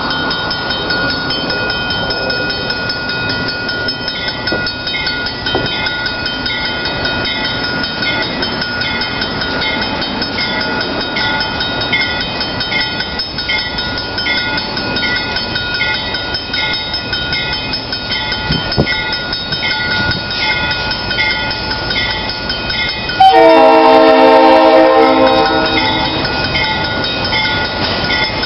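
A diesel freight locomotive approaching, its running noise rising slightly as it nears, over a steady high ringing with a regular beat. About 23 seconds in, the locomotive's horn sounds one long blast of nearly three seconds, the loudest sound.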